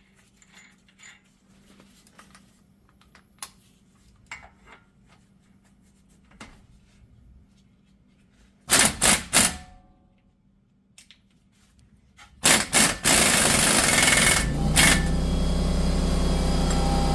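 Impact wrench fired in several short bursts, running on the front axle nut, with faint tool clicks before it. About twelve seconds in, more bursts give way to a steady machine drone with a low hum.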